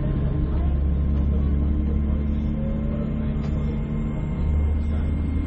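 Passenger train running, heard from inside the carriage: a steady low rumble with faint steady whining tones above it.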